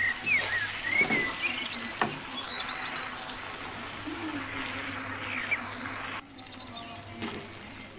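Small birds chirping in short, quick rising and falling calls, over a steady background hiss and low hum, with a couple of faint knocks.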